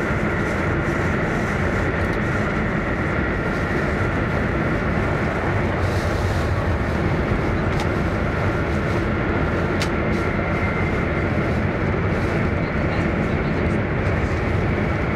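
Interior noise of an E1 series Max Shinkansen running at speed: a steady rumble and hiss heard from inside the passenger car, with a couple of brief faint ticks about halfway through.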